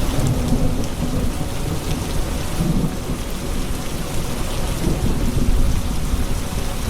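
Rain falling steadily with low thunder rolling underneath, swelling a few times.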